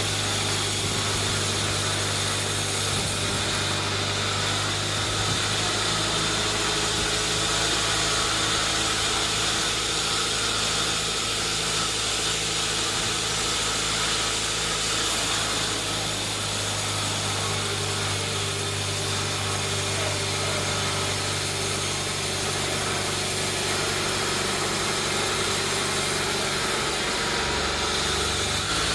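Sawmill machinery running steadily, a constant engine-like drone with a strong low hum that does not rise or fall.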